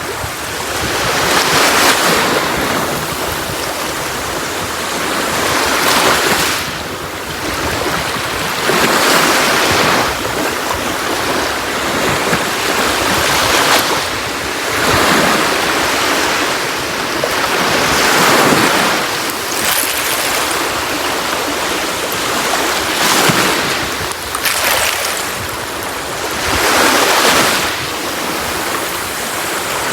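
Sea waves breaking on a beach, each wash swelling and falling away every two to four seconds over a steady surf hiss.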